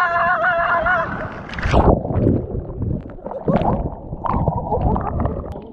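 A drawn-out wavering voice in the first second, then irregular surges of rushing, splashing water noise.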